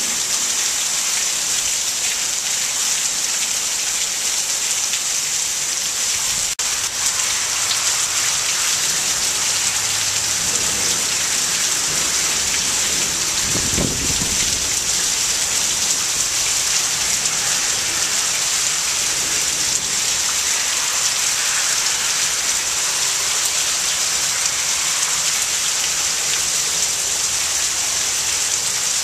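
Heavy monsoon rain pouring down steadily in a loud, even hiss, with a short low rumble of thunder about halfway through.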